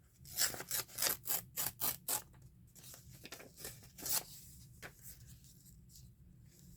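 Scissors cutting paper: a quick run of about seven snips in the first two seconds, then a few slower, scattered snips, one of them louder about four seconds in.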